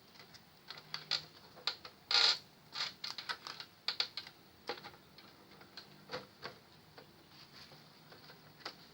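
Irregular light clicks and taps of small parts being handled, with the loudest cluster about two seconds in.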